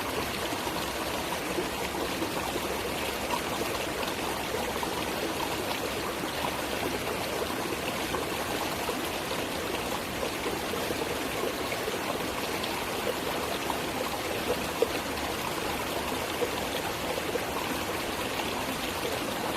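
Running water of a stream flowing steadily, an unbroken rush with small splashing flickers throughout.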